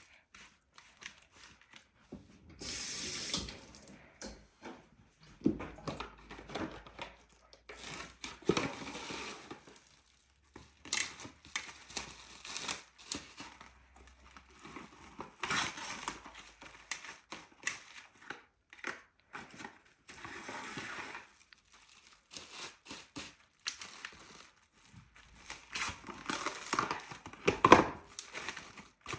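Food wrap being pulled, torn off and crinkled as it is pressed over a dish of marinated chicken: a run of irregular rustling and crinkling bursts, the loudest near the end.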